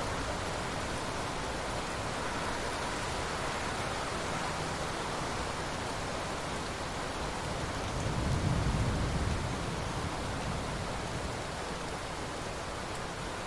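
Rain falling on open ocean water: a steady, even hiss, with a low rumbling swell about eight seconds in.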